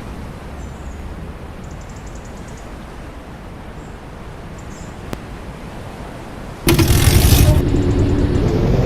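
Steady low road rumble of a moving vehicle. About seven seconds in, a sudden, much louder rushing noise cuts in and stays loud.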